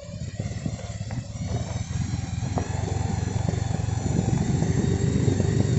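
Motorcycle running while riding downhill, with a rough low rumble that grows steadily louder.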